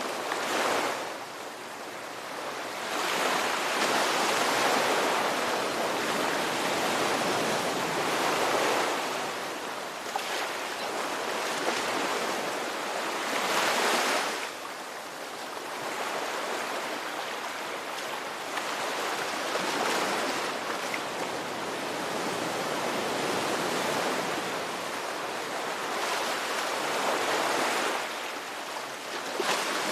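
Ocean surf: waves breaking and washing ashore in a continuous hiss of water, swelling and easing every several seconds.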